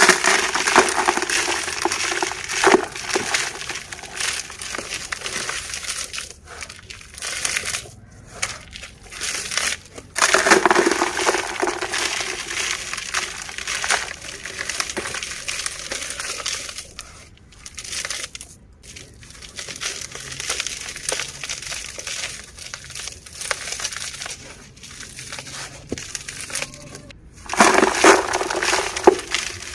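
Dry, gritty, stony dirt being crushed and crumbled, a continuous gritty crunching. It is loudest at the start, about ten seconds in and near the end, with a few brief pauses.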